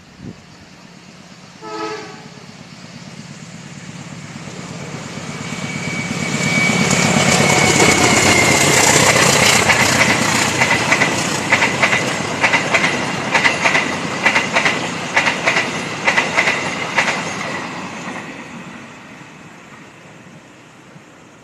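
Passenger train hauling stainless steel coaches, sounding a short horn blast about two seconds in, then passing close by. The rush of noise builds, the wheels clack rhythmically over the rail joints with a steady high tone on top, and the sound fades away near the end.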